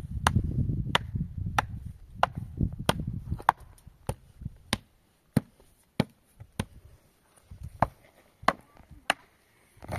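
A steady series of sharp blows from a tool striking wood, about three every two seconds, fifteen strokes in all. A low rumble runs under the first few seconds.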